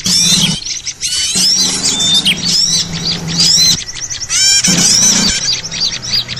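Bird-lure (pikat) recording of many small birds chirping and twittering at once, a dense, busy chatter of overlapping high-pitched calls. A low hum comes and goes beneath it.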